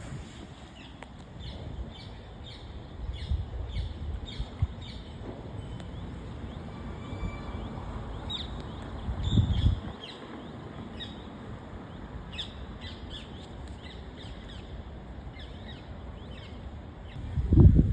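Short high bird chirps repeating about twice a second over low wind rumble on the microphone, with a low thud about halfway through. Just before the end, loud honking calls begin.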